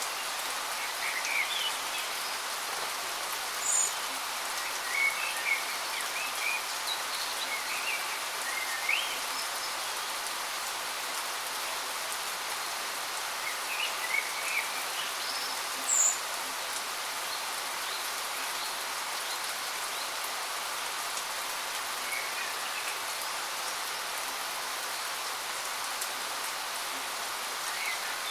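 Waterfall rushing with a steady hiss, and birds giving short, scattered chirps over it.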